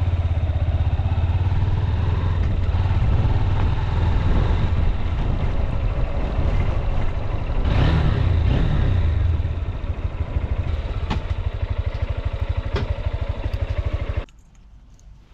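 Honda CB200X's single-cylinder engine running, with a brief rise and fall in revs about eight seconds in, then idling more quietly. The engine cuts off abruptly about a second before the end.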